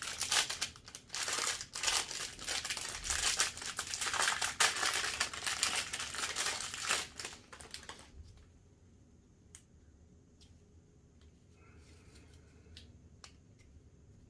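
Plastic wrapping of a water filter cartridge crinkling and tearing as it is unwrapped, for about eight seconds. Then a few light clicks.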